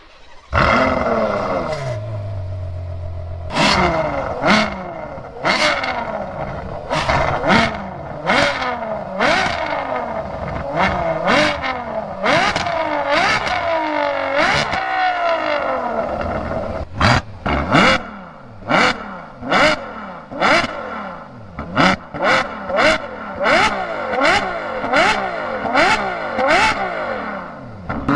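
Ferrari FF's 6.3-litre naturally aspirated V12 firing up about half a second in and settling to idle. It is then revved again and again in sharp blips, each rising and falling in pitch, and the blips come shorter and quicker in the second half.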